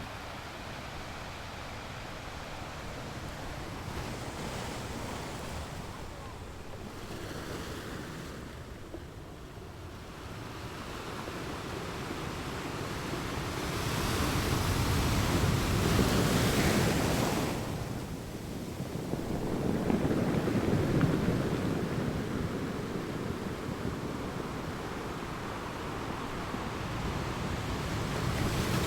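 Ocean surf: waves rolling in and washing, a steady rush that swells louder as two bigger waves come in about halfway through, with another building near the end.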